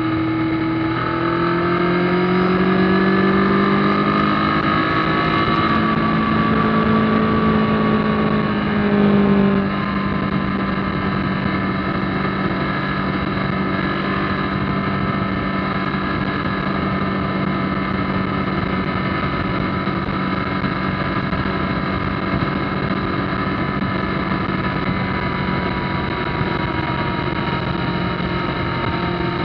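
Kawasaki ZZR1400's inline-four engine pulling hard, its pitch rising twice in the first ten seconds, then running steadily at motorway cruising speed with a steady rush of wind and road noise.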